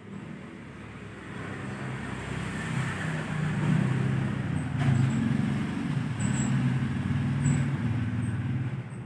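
A motor vehicle engine running close by, growing louder over the first few seconds and then holding steady, with a few faint short high chirps in the second half.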